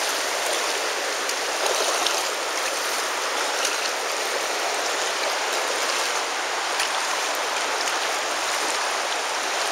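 The Virgin River flowing: a steady rush of water with a few faint ticks in it.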